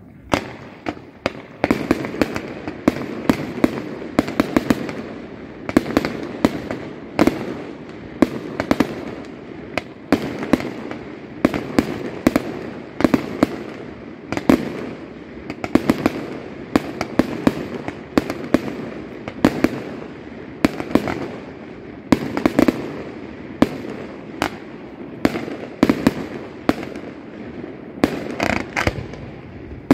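Aerial fireworks display going off in rapid succession: a dense barrage of sharp bangs and crackles, several a second, over a continuous rumble of launches and bursts.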